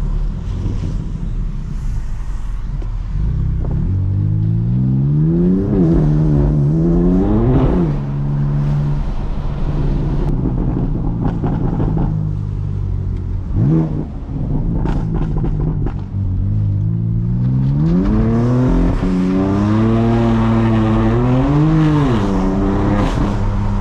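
BMW M4 CS twin-turbo inline-six under hard driving, revving up and down again and again as the car is pushed and slid. The engine note drops briefly about 8, 14 and 16 seconds in, then climbs and holds high through the last stretch.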